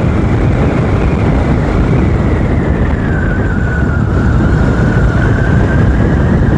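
Motorcycle on the move: steady wind rush over the microphone mixed with engine and road noise. A faint whine sinks in pitch about halfway through and rises again near the end.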